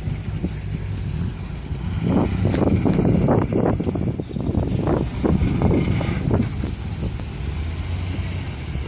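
Car engine running with a steady low hum, with a stretch of louder, uneven pulses through the middle.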